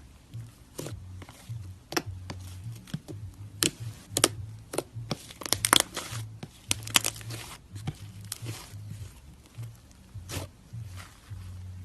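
Slime being poked and squeezed by hand, giving irregular sharp clicks and crackling pops, densest in the middle.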